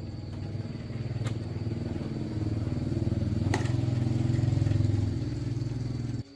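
Motorcycle engine running, louder for a couple of seconds in the middle, then cut off suddenly near the end.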